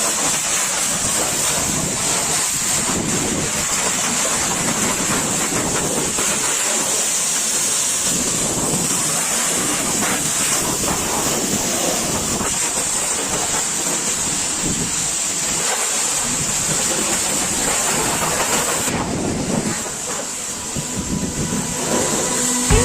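Pressure washer jet spraying water onto a truck: a steady hissing spray. The high hiss drops out near the end.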